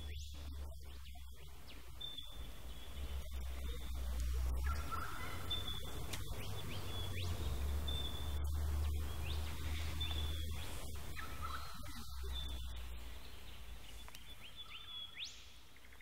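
Birds calling: thin high notes and several short rising whistles, over a steady low rumble.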